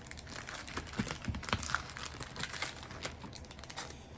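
Plastic packaging crinkling and crackling in the hands, with scattered small clicks, as a tightly sealed package of metal cutting dies is worked open.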